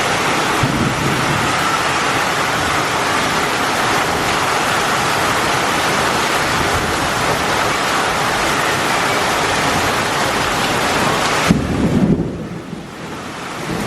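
Heavy tropical downpour: loud, steady rain hiss. About eleven and a half seconds in the hiss drops away abruptly, with a short low rumble.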